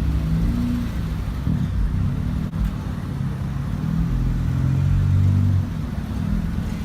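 A car engine running at low revs, its pitch shifting up and down a little and rising slightly past the middle.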